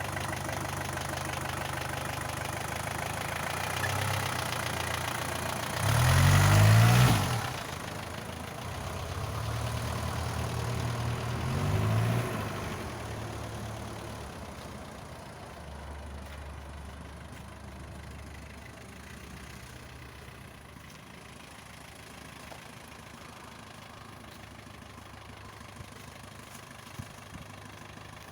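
Isuzu NPR diesel engine running as the truck is moved, revved up loud about six seconds in with its pitch rising and falling, revved again briefly around twelve seconds, then settling to a quieter, steady idle.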